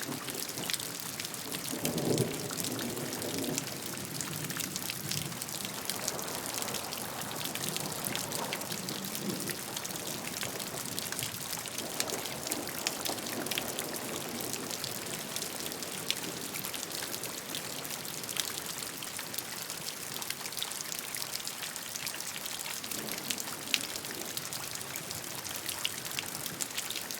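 Steady rainfall with many separate drop hits, and a few soft low swells coming and going, the strongest about two seconds in.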